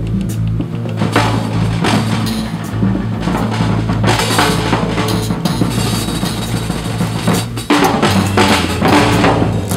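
Drum kit played in a busy solo, with bass drum and snare hits, over a recorded bass line holding low notes.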